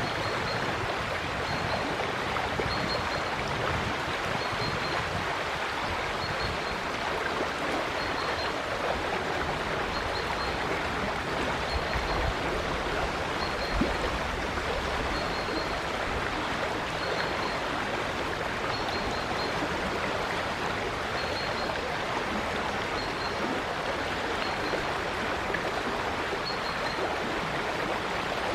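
River water flowing and babbling steadily, with a faint high-pitched chirp repeating about every second and a half.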